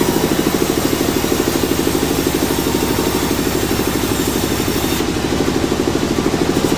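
Sawmill engine running steadily with a loud, rapid, even throb.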